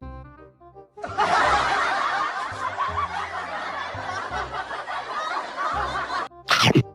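Background music with a burst of canned laughter laid over it for about five seconds, starting and cutting off abruptly. A brief, sharp sound effect follows near the end.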